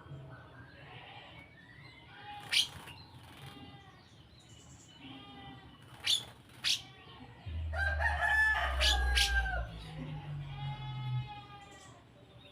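Birds calling: a few sharp, short calls in the first seven seconds, then a longer, louder call from about eight to eleven seconds in, over a low rumble.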